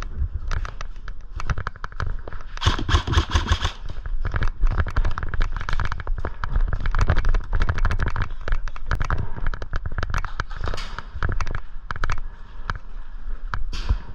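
Airsoft guns firing in rapid, irregular volleys: dense sharp cracks and clicks throughout, busiest about three seconds in.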